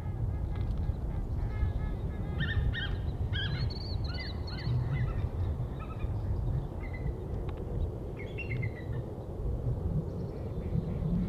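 Birds calling: clusters of short, high chattering notes from about two to five seconds in, and a few more near seven and eight and a half seconds, over a steady low rumble.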